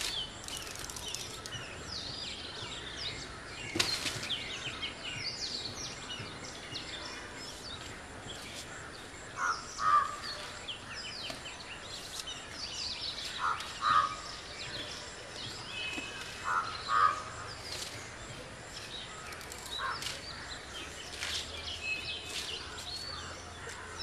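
Birds chirping and calling continually around an open yard, with several louder double calls about every three to four seconds through the middle, and one sharp knock about four seconds in.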